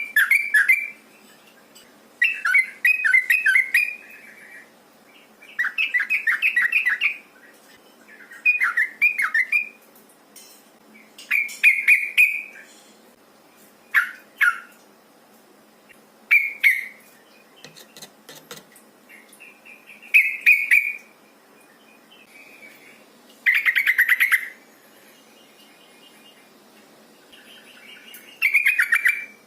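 Female yellow-vented bulbul calling to a male with short, bubbly chattering phrases about a second long, repeated every one to three seconds.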